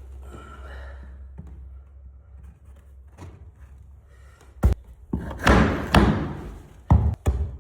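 Hammer blows on wooden parquet staves: one sharp knock about halfway through, then a run of quick strikes near the end.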